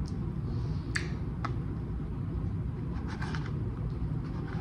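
Wet chewing clicks of a mouthful of sushi roll, two sharp ones about a second in, over a steady low background rumble; around three seconds in, faint light ticks as fingers reach across the plastic sushi tray.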